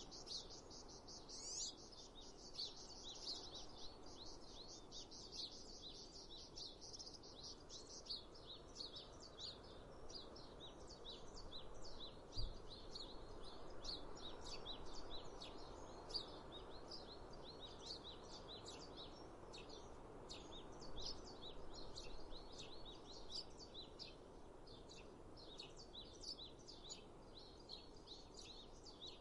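Birds chirping, many short high calls in a dense chorus over a steady faint rush of background noise. A single brief low thump comes about halfway through.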